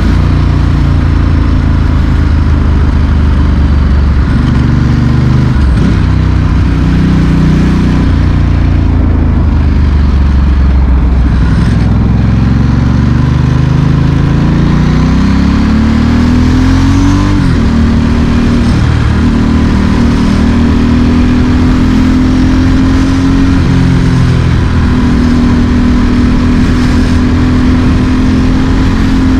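Ducati Monster S4R's L-twin engine through a straight exhaust, heard from the bike while riding. The pitch rises and falls with the throttle: a long climb under acceleration, sudden drops as the revs fall, then a steadier run.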